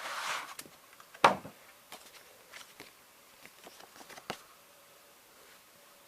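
Hands handling a plastic VHS cassette shell: a short rustle, a sharp knock about a second in, then a few light clicks.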